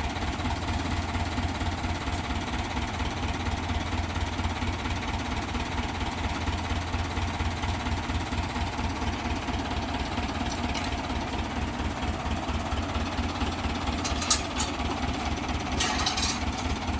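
A vehicle engine idling steadily with a fast, even low throb. A few sharp knocks come near the end.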